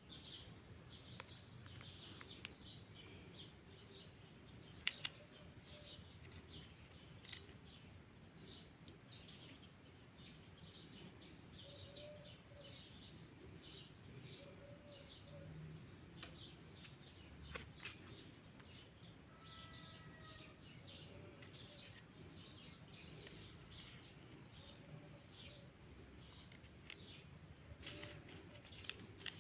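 Small birds chirping in rapid, continuous short high notes over faint outdoor background. A few sharp clicks stand out, the loudest a pair about five seconds in.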